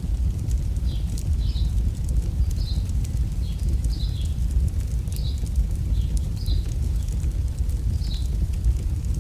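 Synthetic campfire crackle: a steady deep rumble under many small sharp crackling pops, with short high chirps repeating about once a second.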